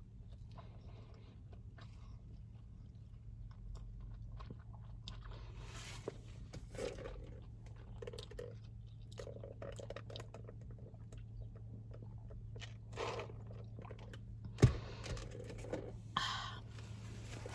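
Close-up eating sounds from a person chewing burger and fries: wet chewing and small crunches over a steady low hum, with one sharp knock about fifteen seconds in.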